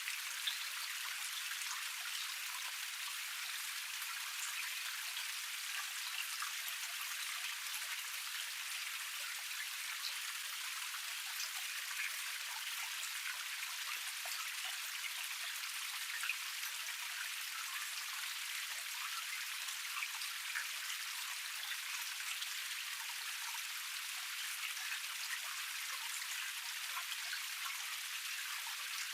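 Water of a small forest waterfall cascade splashing and trickling over rock, an even hiss thick with the patter of tiny droplet splashes.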